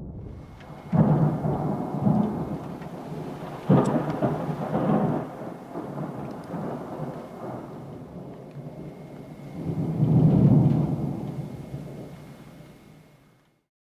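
Thunder during a thunderstorm with rain: a sharp crack about a second in, another near four seconds, then a long rolling rumble that swells around ten seconds and fades away near the end.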